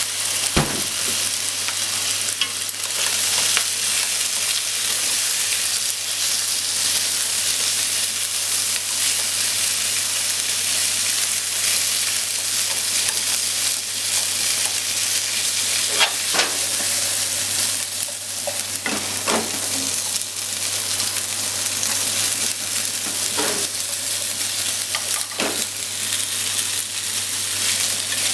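Salmon and sliced potatoes sizzling in a frying pan, a steady frying hiss, while being stirred with cooking chopsticks. The chopsticks knock against the pan a few times.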